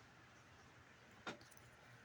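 Near silence: room tone, with one brief click a little over a second in.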